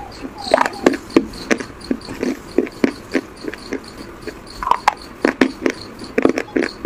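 Close-miked crunchy chewing of a brittle white chalk-like piece: sharp, crisp crunches at an uneven pace of two or three a second, with a short lull about halfway.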